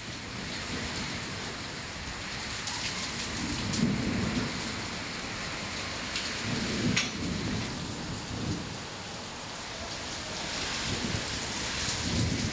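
Heavy rain pouring steadily, with low rolls of thunder swelling about four seconds in, again around seven seconds, and near the end, and a few sharp taps of impacts.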